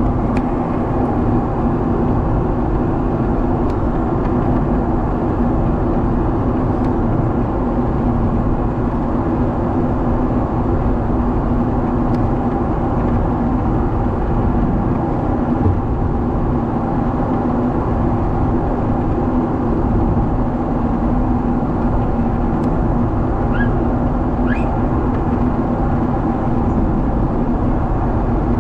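Steady cabin noise of a Boeing 777 in flight, inside the cabin: jet engine and airflow rushing with a low drone, and a couple of faint short squeaks near the end.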